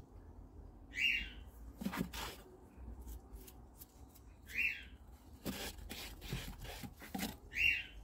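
A bird calling three times, each call short and high, about three seconds apart. Softer taps and scrapes come in between.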